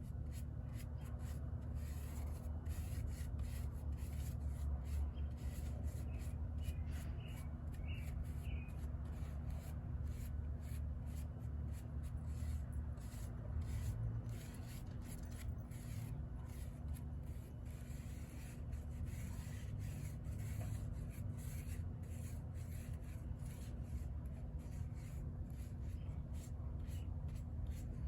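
Rapid scratching and rubbing strokes of a hand tool working over carved wood, like sanding or rasping, over a steady low hum.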